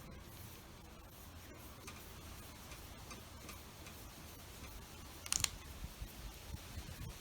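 Quiet workbench handling of small metal parts and hand tools: scattered faint ticks and taps, with a brief burst of sharp clicks a little past five seconds in.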